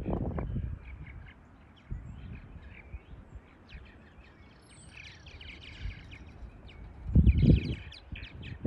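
Birds calling, with many short chirps and calls throughout. A louder low rushing sound comes at the very start and again about seven seconds in.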